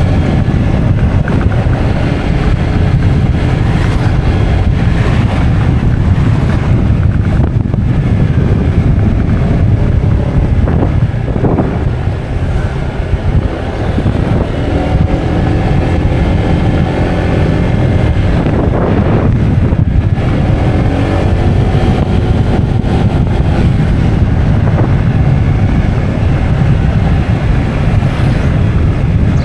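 A vehicle engine running on the move under heavy wind noise on the microphone, its pitch rising and falling several times as it speeds up and changes gear.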